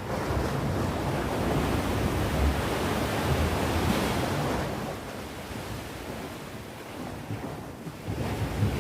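Sea waves breaking and washing onto the shore, one swell building and easing off over several seconds, with wind buffeting the microphone.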